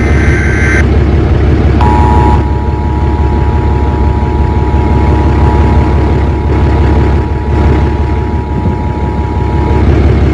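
Loud, steady low rumble of a vehicle on the move. About two seconds in, a steady two-tone electronic alert tone starts and holds for about eight seconds, then stops.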